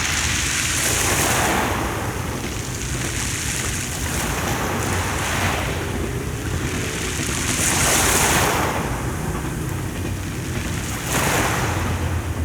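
Sea waves breaking and washing up on the shore, the hiss swelling every few seconds, with wind rumbling on the microphone.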